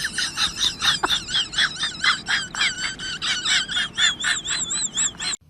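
An animal making rapid, high-pitched repeated chirping calls, about four a second, that cut off abruptly near the end.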